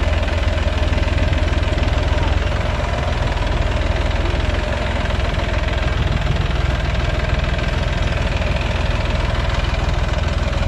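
Farm tractor's diesel engine running steadily and loud, with a heavy low clatter.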